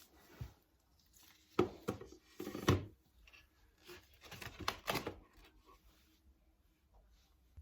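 A few short tearing and rustling sounds, as of paper or material being handled and torn, the loudest about a second and a half in and just under three seconds in, with another cluster near the five-second mark.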